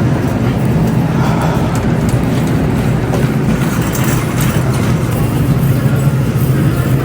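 Steady road and engine noise of a car being driven, an even low rumble.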